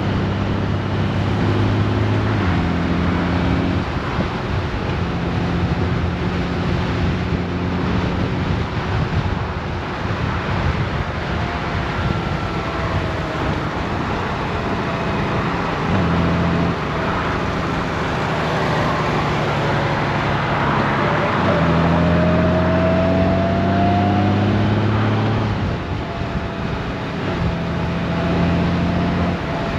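Honda GoldWing's flat-six engine running under way, with steady wind and road noise over it. The engine note holds steady for stretches and changes pitch in steps several times.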